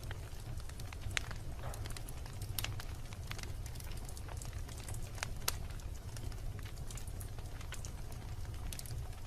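Wood fire burning in a fireplace: a low steady rumble of flame with irregular sharp crackles and pops from the logs, a few louder snaps at about a second, two and a half seconds and five and a half seconds in.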